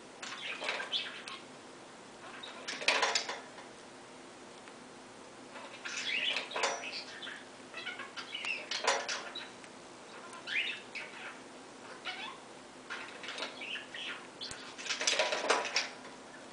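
Pet cockatiel making short chirps and scratchy rustling noises in bursts every second or two, the louder bursts about three seconds in and near the end.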